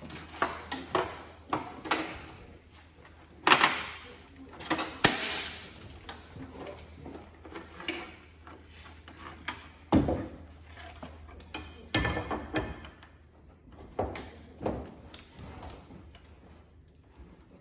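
Handling noises: irregular knocks, clicks and short scrapes, the loudest about 3.5 s and 10 s in, over a low steady hum.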